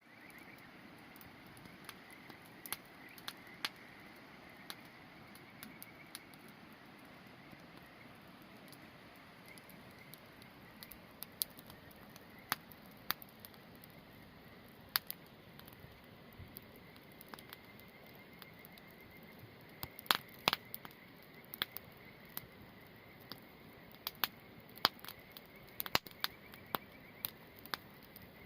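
Wood campfire crackling with sharp, irregular pops over a steady hiss of sausages sizzling. The pops come more often in the second half.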